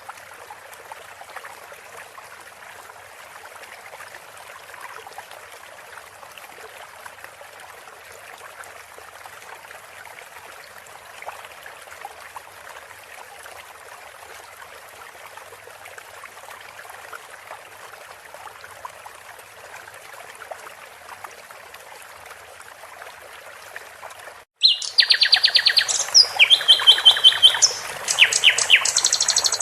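Steady trickling water for most of the clip, then about 24 seconds in it cuts suddenly to loud songbird song of rapid repeated notes and trills.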